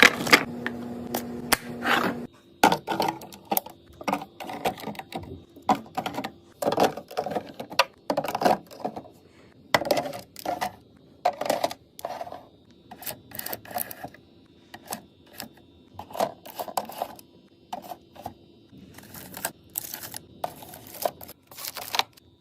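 Food containers and packages clicking and clattering as they are set down and arranged on fridge shelves, in quick irregular taps and knocks. A low steady hum runs under the first two seconds, then stops.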